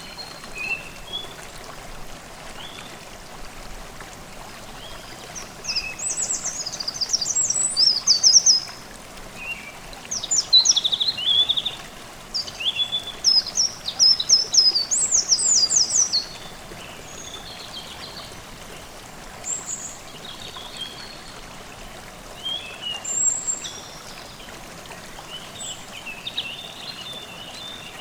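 Forest stream babbling steadily under songbirds singing. The loudest bird song comes in three runs of rapid, high notes in the first half, with shorter scattered calls before and after.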